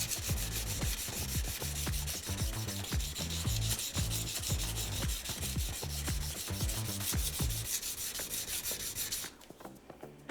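Thin honyaki fugu-hiki knife blade being stroked rapidly back and forth on a wet whetstone: a steady rasping scrape of steel on stone in quick repeated strokes, which stops about nine seconds in.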